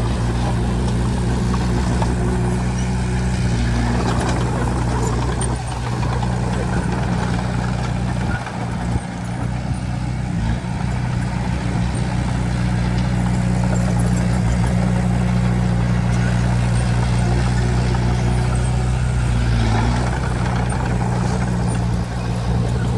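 Heavy construction machine's diesel engine running steadily at a constant pitch, with a short drop in level about nine seconds in.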